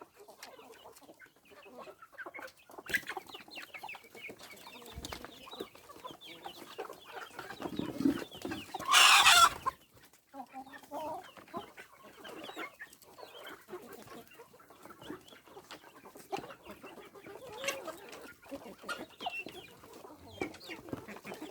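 Chickens clucking on and off, with short scattered calls. About nine seconds in there is one loud, harsh burst of noise lasting under a second.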